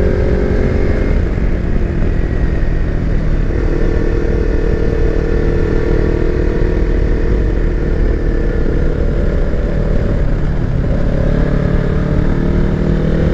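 Kawasaki Versys X300's parallel-twin engine running on the move through bends, over steady wind rumble. The engine note fades about a second in, comes back near four seconds, and changes pitch again near eleven seconds.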